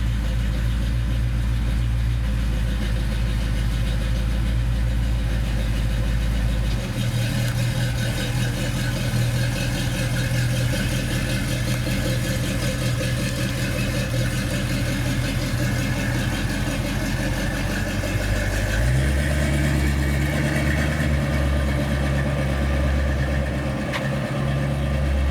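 Car engine idling with a low, steady sound; its pitch shifts about seven seconds in and steps up a little about three-quarters of the way through.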